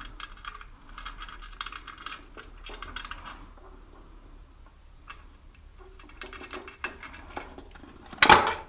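Rapid metallic clicking of hand tools working a nut on the motorbike's rear mudguard fixings for the first few seconds, then quieter scattered clicks, and a brief louder noise near the end.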